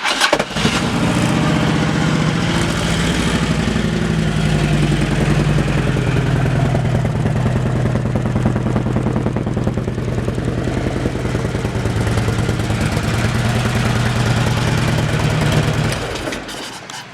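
2008 Harley-Davidson Electra Glide Ultra Classic's V-twin idling steadily through a Vance & Hines aftermarket exhaust. It begins just after a sharp click at the start and fades out near the end.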